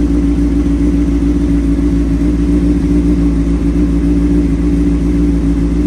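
2003 Honda CBR600RR's inline-four engine idling steadily through a Yoshimura slip-on exhaust, warming up after a cold start from a long lay-up.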